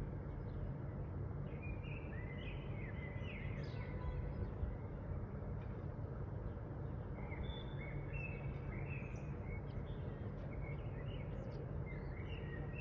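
Small birds chirping in short scattered bursts over a steady low rumble of background noise.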